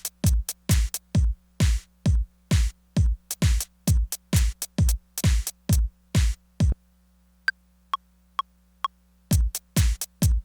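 Tech house drum pattern from a Korg Electribe Sampler ES2: a steady run of kick-and-noise drum hits over a held low bass tone. About two-thirds through the pattern stops, four short, high ticks follow about half a second apart, and the beat comes back just before the end.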